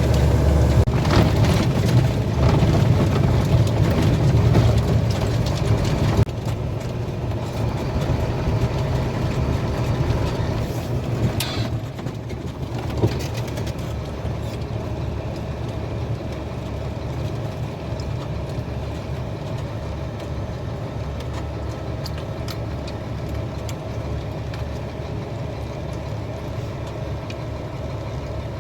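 Truck engine running with a steady low drone. It is louder for the first six seconds or so, then drops in two steps, with a brief hiss near the middle.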